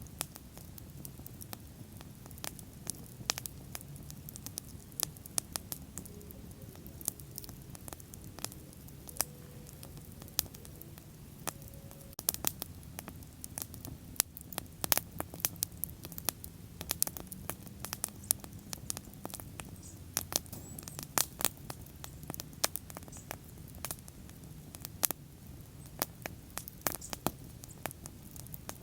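Wood bonfire burning: a steady low rush from the flames with frequent sharp crackles and pops, some coming in quick clusters.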